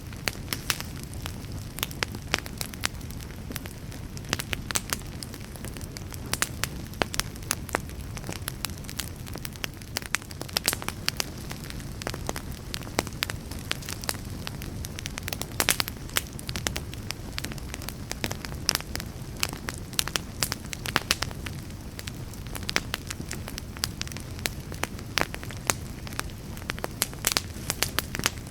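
Wood fire burning, with frequent irregular sharp crackles and pops from the burning wood over a steady low rumble of the flames.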